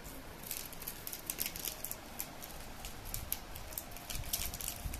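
Baby crunching and chewing a crisp Malkist cracker biscuit: an irregular run of small, sharp crackles starting about half a second in.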